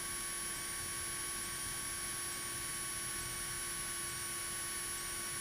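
Steady electrical hiss and hum with a few faint steady tones, from a light aircraft's cockpit intercom feed; no engine sound comes through.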